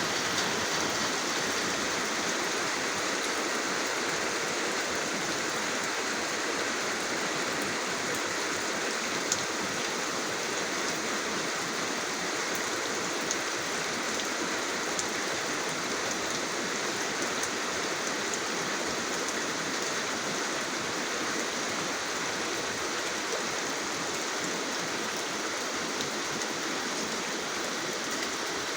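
Steady rain falling, an even hiss with a few single drops ticking out, one louder about nine seconds in.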